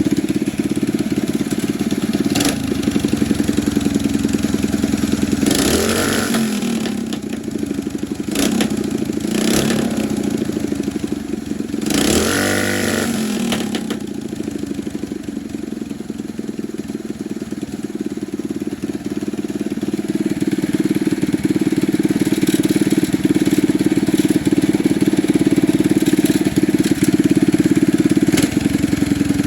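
Mini bike's single-cylinder four-stroke engine running steadily, dropping back somewhat in the middle and building up again toward the end, with a few short bursts of noise in the first half.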